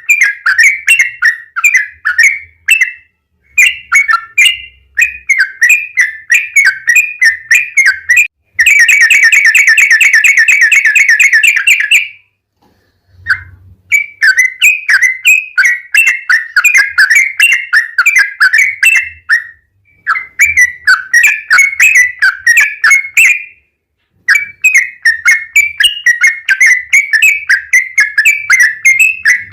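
Yellow-vented bulbul (trucukan) singing loud phrases of quick, bubbling chirps broken by short pauses. About a third of the way in comes a long, rapid, even trill lasting a few seconds (the 'ropel').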